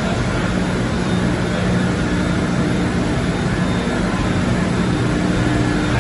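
Textile scouring and milling machine running, a steady mechanical noise with a constant low drone.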